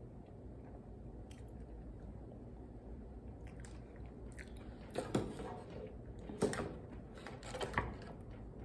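A person chewing a mouthful of hamburger close to the microphone. A few louder sudden noises come in the second half.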